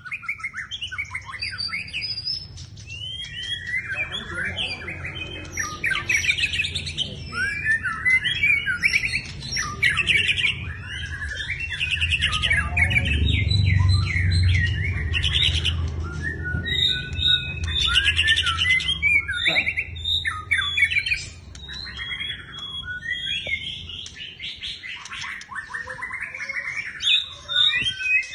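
White-rumped shama singing vigorously and without pause: a long run of varied whistled and chattering phrases, over a low steady hum.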